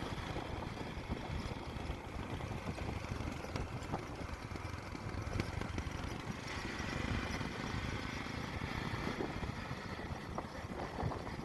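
Motorcycle engine running steadily on a ride, a rough low rumble.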